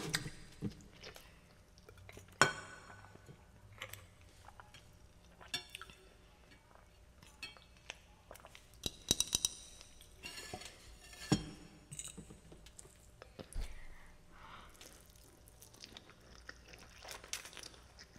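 Close-miked eating of spaghetti: intermittent chewing and wet mouth sounds, with scattered sharp clicks and clinks of cutlery against a dish.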